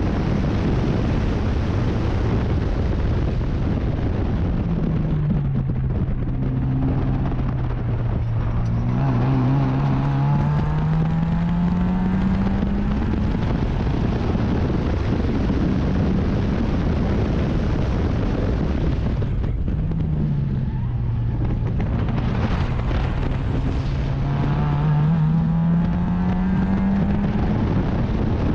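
Race car engine heard onboard under heavy wind and road noise. Twice its revs fall as the car slows, hold low, then climb steadily as it accelerates out.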